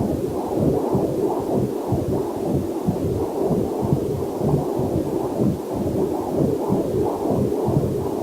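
Heartbeat picked up by a fetal Doppler heart monitor: a rapid, even, whooshing pulse, with faint waterfall noise mixed in beneath it.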